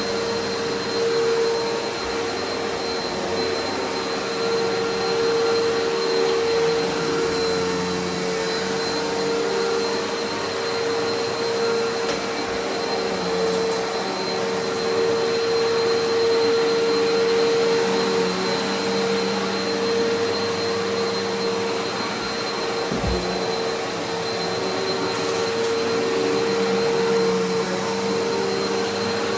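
Eureka Altima upright vacuum cleaner running on carpet, a steady motor whine over a rush of airflow, its level rising and falling slightly as it works.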